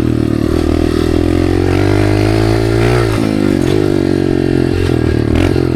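Dirt bike engine running loudly as it is ridden, its pitch rising and falling with the throttle. About three seconds in the revs drop sharply and climb again, with smaller dips near the end.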